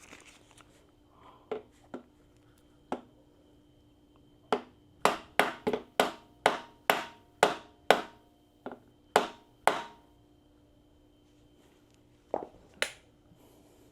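Mallet knocking a motorcycle handlebar part down into place: a quick run of about a dozen sharp, ringing knocks, roughly two a second, with a few single knocks before and after.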